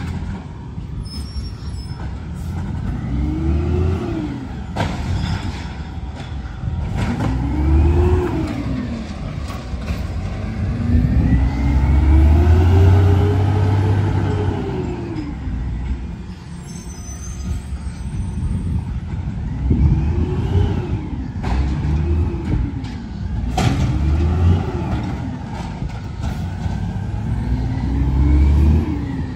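Garbage truck engine revving up and falling back again and again, about every few seconds, with a few sharp clanks in between.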